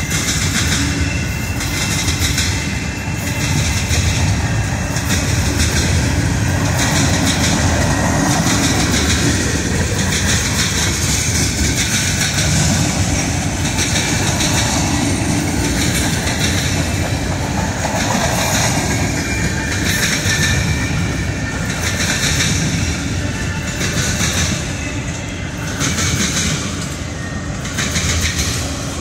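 CSX mixed freight train's boxcars and covered hoppers rolling past close by: steady, loud noise of steel wheels running over the rails.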